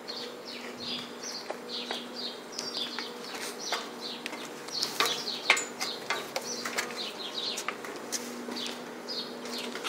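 Small birds chirping over and over in short falling chirps, several a second. Footsteps knock sharply on metal stairs now and then, most loudly about five seconds in, over a steady low hum.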